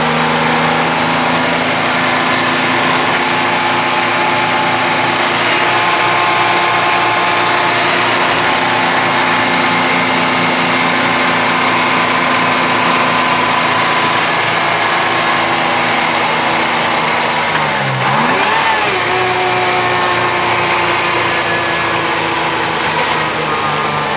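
Semi truck's diesel engine running at steady revs under load. About three quarters of the way through, its pitch dips and climbs back, like a gear change, and it dips again near the end.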